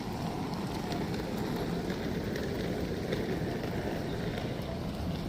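Steady rushing noise of a city street in the rain, with faint scattered ticks.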